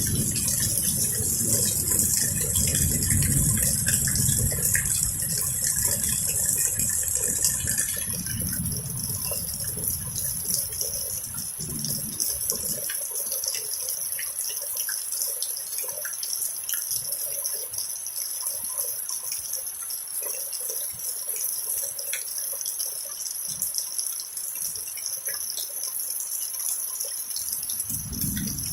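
Heavy rain falling in a thunderstorm, a steady hiss, with a deep low rumble under it for the first dozen seconds or so that then dies away.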